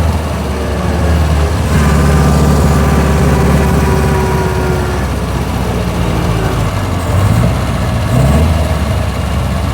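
1924 Austin Seven's small four-cylinder side-valve engine and gearbox running while the car is under way, heard from inside the car. The note is stronger with a steady higher whine over it from about two seconds in, eases off around five seconds, and picks up again near eight seconds.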